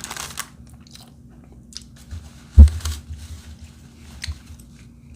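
Paper food wrapper rustling and small handling clicks as a chicken arepa is put down, with one loud low thump about two and a half seconds in.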